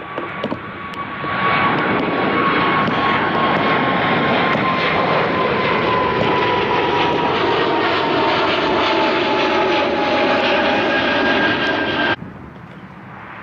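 Airliner jet engines, loud as the aircraft passes, with a whine that slowly falls in pitch over the roar. The sound cuts off abruptly near the end.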